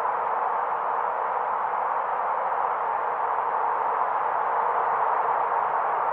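Steady wind ambience: an even rushing hiss that swells a little about four seconds in.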